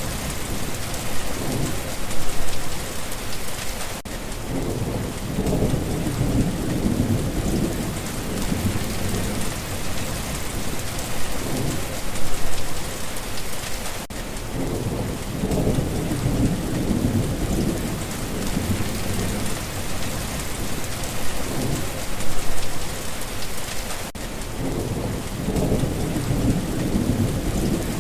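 Steady heavy rain hissing, with low rolls of distant thunder swelling up and fading about every ten seconds, in a pattern that repeats like a loop.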